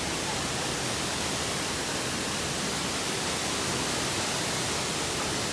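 Waterfall water rushing steadily, an even, unbroken hiss of falling water.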